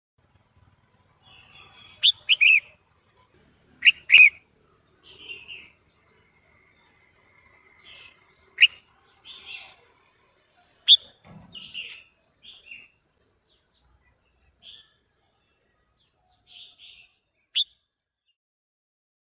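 Female red-whiskered bulbul calling: short, sharp notes that slide downward, a handful of loud ones a few seconds apart, with quieter chirps between them and silent gaps.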